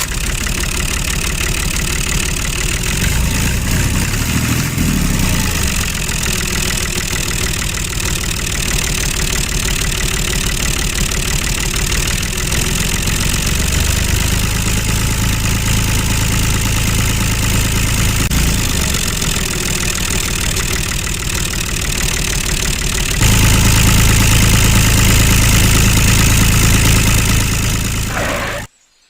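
Small motor of a DIY model mini tractor running with a fast, even engine-like pulse. It gets louder about three quarters of the way through and stops abruptly near the end.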